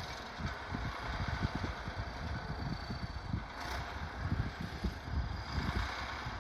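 T-150K wheeled tractor's diesel engine running steadily under load while ploughing, with irregular low wind buffeting on the microphone.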